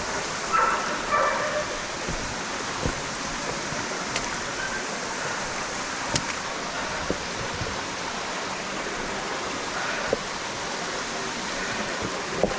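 Rocky mountain stream rushing over boulders, a steady rush of water with a few scattered small clicks or knocks.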